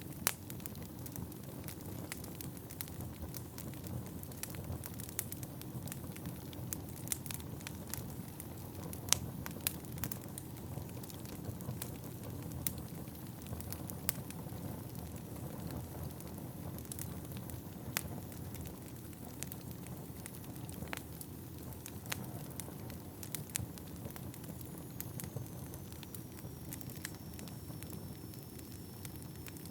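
Wood burning in an indoor fireplace: a steady low rumble of flames with frequent sharp crackles and pops from the logs. A faint, thin high whistle comes in near the end.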